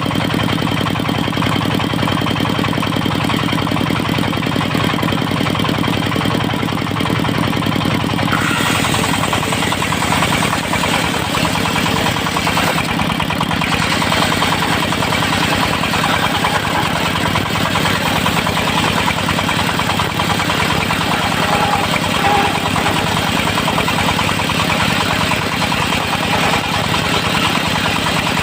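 The engine driving a portable circular sawmill runs steadily; about eight and a half seconds in, a harsher, hissing noise reaching into the high range joins it and carries on.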